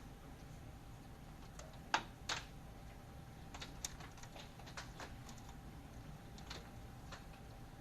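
Irregular light clicks and taps, two louder ones about two seconds in and a scatter of softer ones after, over a low steady rumble and a faint steady hum.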